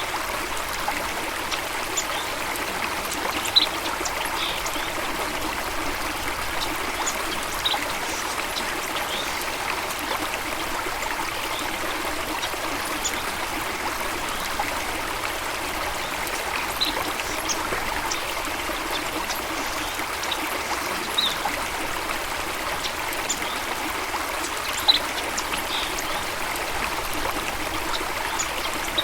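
Steady running water, like a stream or small waterfall, with brief high bird chirps scattered throughout.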